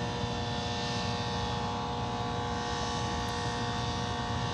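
Horizontal directional drilling rig running steadily at an unchanging speed: an even engine drone with a constant whine.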